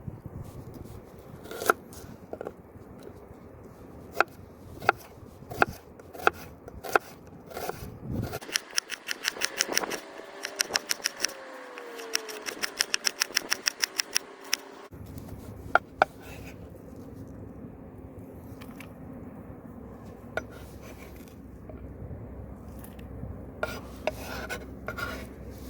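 Knife cutting on a cutting board: scattered single cuts, then a fast, even run of chops lasting about six seconds, then a few more cuts.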